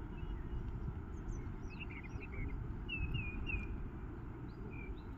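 A bird calling in a series of short chirps over a steady low rumble of outdoor background noise.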